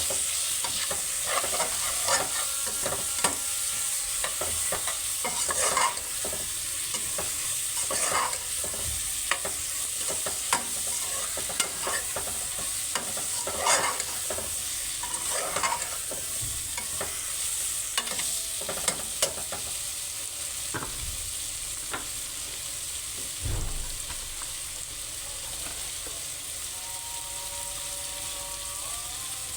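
Tinde (round gourd) sizzling in hot oil in a pan with a steady hiss, while a spoon stirs and scrapes against the pan at irregular intervals. The stirring strokes come often at first and thin out over the last several seconds.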